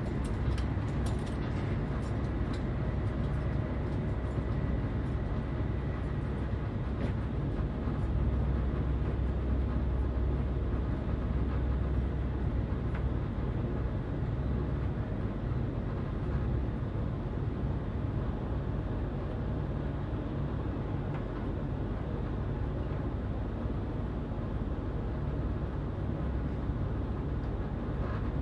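Passenger train running at speed, heard from inside the carriage: a steady low rumble of wheels rolling on the rails, with a faint high whine during the first several seconds.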